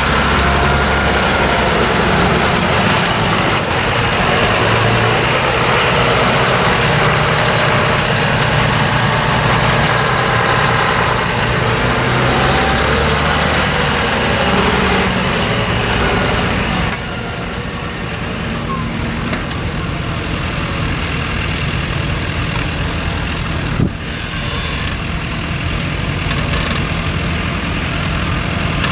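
Tractor engine running steadily, which drops abruptly in level a little over halfway through, with a single sharp knock near the end.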